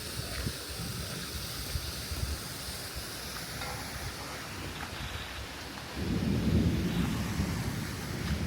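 Steady rain falling, with a deep low rumble rising about six seconds in and carrying on.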